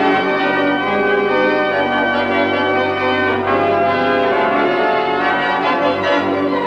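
A Wurlitzer theatre organ with four manuals and fourteen ranks playing full sustained chords, the harmony changing about halfway through. It is heard on a 1968 BBC radio broadcast recording.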